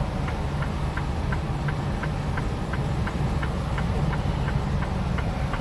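Semi-truck running at road speed, a steady low drone inside the cab, with a regular light ticking about three times a second.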